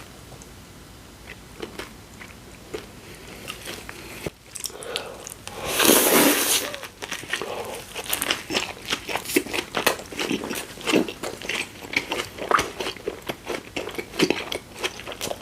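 Close-miked eating of a Subway Italian BMT sub: a loud crunchy bite about six seconds in, then chewing with many small mouth clicks.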